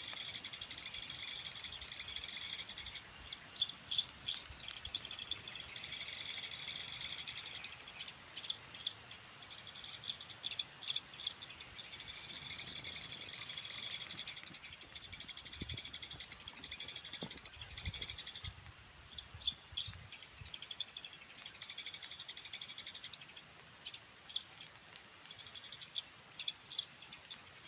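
A high, steady chorus of calling animals that fades and returns in waves every few seconds, with short bird chirps scattered over it.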